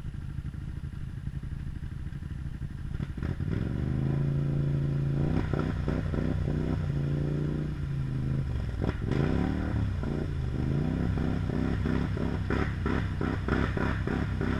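Polaris Sportsman XP 850 ATV engine through a carbon fiber M4 muffler: idling low, then revving up about three seconds in and holding high revs, followed by a string of rises and falls in revs for the rest of the time.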